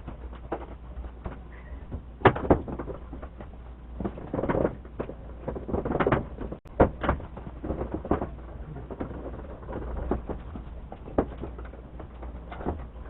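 Handling noises from taking apart a Daewoo washing machine to get at the parts inside: irregular clicks, knocks and scraping of screwdriver, screws and panels, with a few sharper knocks.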